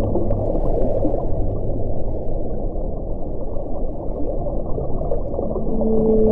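Steady low rush of wind with a faint moaning tone, which fades out in the first two seconds; another moaning tone comes in near the end.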